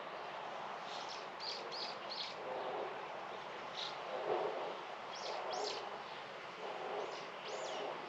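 Outdoor garden ambience: small birds giving short, high chirps every second or so over a steady background hiss, with a few lower, noisier sounds in between.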